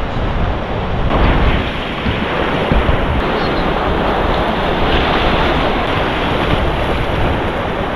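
Breaking surf on a beach with steady wind buffeting the microphone.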